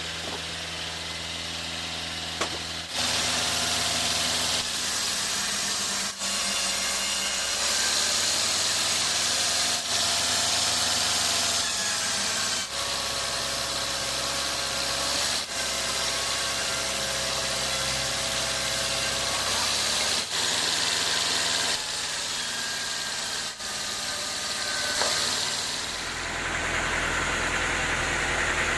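Sawmill running: a steady engine drone under a high hiss, the sound breaking off and changing abruptly every few seconds.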